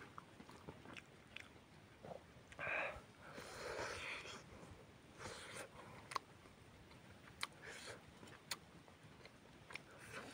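A man chewing and smacking his lips while eating boiled chicken and rice by hand: wet mouth sounds in short spells, with sharp clicks scattered throughout.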